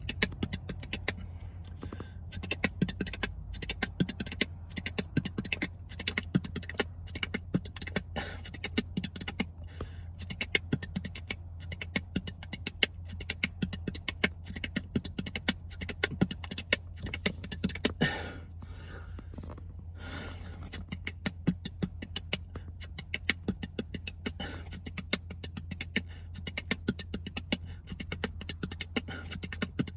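Beatboxing practice: a man repeating a fast tech-beatbox combo over and over, a dense string of quick mouth clicks and snares, over a steady low hum.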